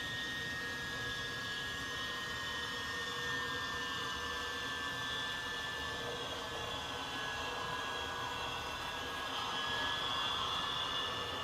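The model locomotive's LokSound V5 sound decoder playing its turbine-engine sound: a steady whooshing whine with a high tone that sags slightly in pitch about halfway through.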